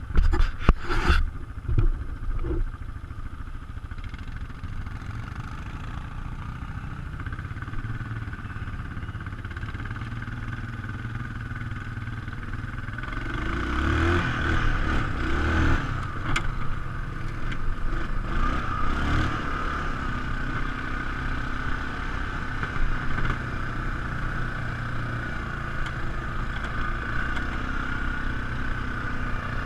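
ATV engine running steadily while being ridden, with several sharp knocks near the start and the engine growing louder about halfway through.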